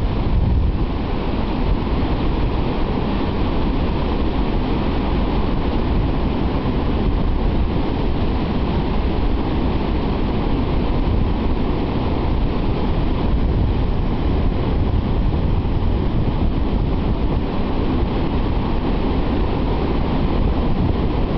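Storm surf breaking in a continuous, steady wash, with wind rumbling on the microphone.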